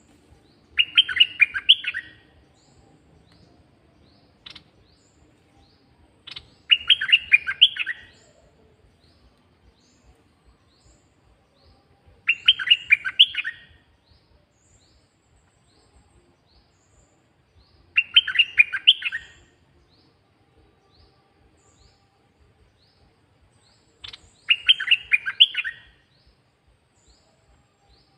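A caged songbird, the Thai 'nok krong dok taeng', singing a short, quick phrase of several clear notes. The phrase comes five times, about every six seconds, and faint thin chirps fill the gaps between.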